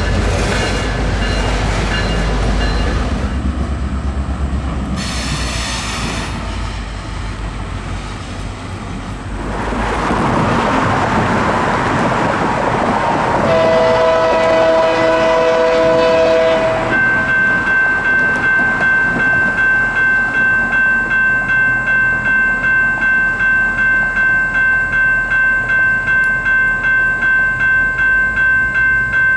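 A train passes with its horn sounding: a chord of several notes blasts for about three seconds near the middle. Then a bell starts ringing steadily, about one and a half strokes a second.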